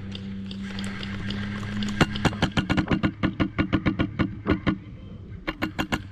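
Airsoft gunfire: a rapid string of sharp shots, about six a second, beginning about two seconds in, a brief pause, then a few more shots near the end, over a steady low hum.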